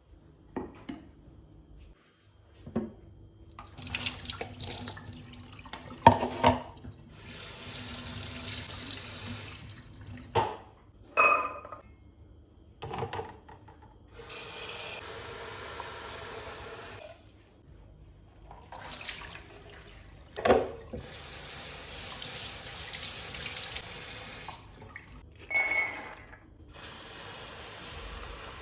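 Kitchen tap running into a sink in several bursts, turned on and off, with clinks and knocks of kitchenware in between; one clink near the end rings briefly.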